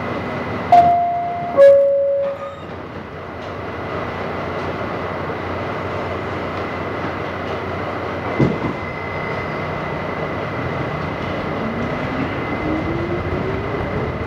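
R68 subway car's two-tone descending door chime about a second in, then the car's steady running noise with one clunk about halfway. Near the end the traction motors' whine rises steadily in pitch as the train gathers speed.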